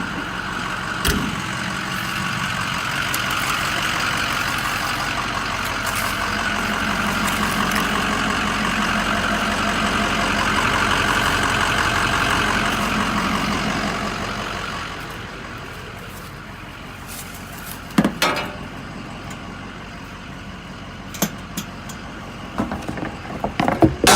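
Diesel truck engine running steadily, louder through the first half, then dropping away about two-thirds of the way through. A few sharp knocks follow near the end.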